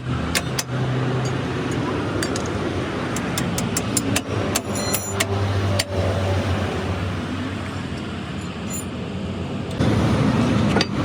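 Vehicle engines running in road traffic, with scattered sharp metallic clicks and a ringing clink about five seconds in; the sound grows suddenly louder about ten seconds in.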